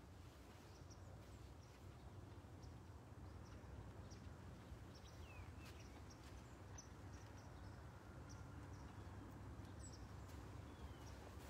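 Faint outdoor ambience: scattered short, high bird chirps and a few down-slurred calls over a low, steady rumble.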